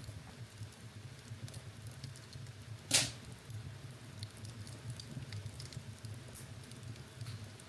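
Wood fire burning in a fireplace: a low steady rumble of flames with small scattered crackles, and one loud sharp pop about three seconds in.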